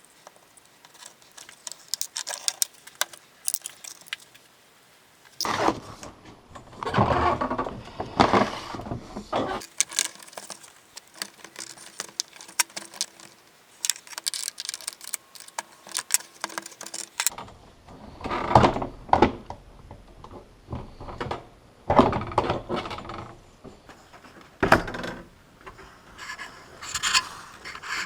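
Metal parts and hand tools being handled at a workbench: irregular clinks, rattles and scraping, with longer stretches of clatter between quieter moments.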